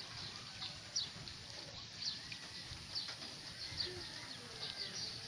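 Small birds chirping: short, high, falling chirps roughly once a second, over a faint low rumble of wind.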